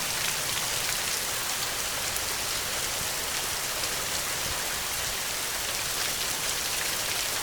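Steady heavy rain: an even hiss of rainfall with fine drop ticks, no thunder.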